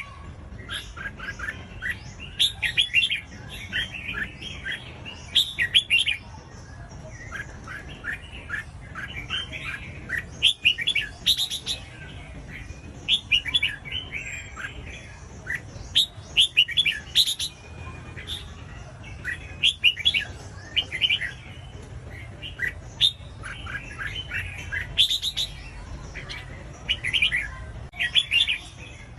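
Red-whiskered bulbul singing: short bursts of quick, bright chirping notes, phrase after phrase with brief gaps between them.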